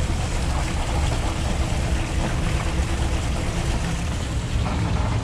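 Engine-driven antique farm machinery running steadily, a continuous low rumble.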